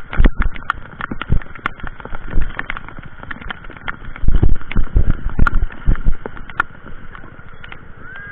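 Rushing water of a rain-swollen creek in flood, a steady noisy rush overlaid by many irregular sharp taps and clicks. A run of heavier low thumps comes about halfway through.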